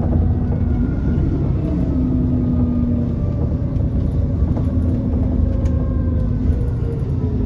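Alexander Dennis Enviro400 double-decker bus under way: a steady low engine and road rumble with a whine that slowly falls in pitch.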